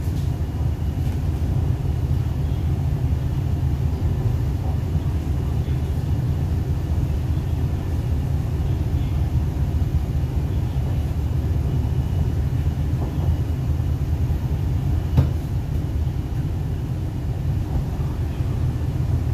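Steady low rumble of an MTR East Rail Line R-Train electric multiple unit running at speed, heard inside the passenger car, with one short sharp knock about fifteen seconds in.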